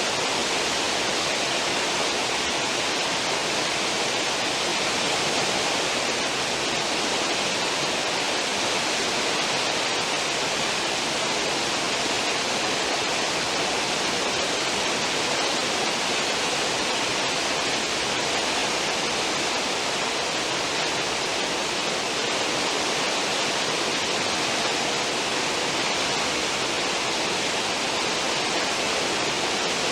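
Cruise ship's stern wake: churned water rushing steadily and evenly, without change.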